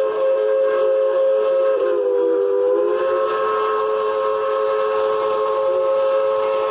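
A narrow-gauge steam locomotive's whistle, blown long and held. It sounds several tones together, and the pitch sags briefly just under two seconds in.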